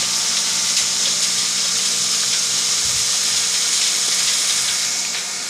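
Steady hiss of water spraying from a hose, over a low steady hum.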